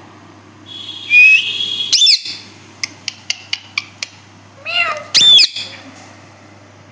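Pet parrot calling: a loud harsh screech with a rising whistled note, a quick run of sharp clicks, then a second loud screech sweeping up and down.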